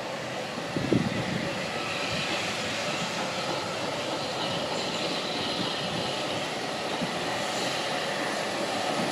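Steam locomotive 30541 running, a steady rushing noise of the working engine and train, with a single knock about a second in.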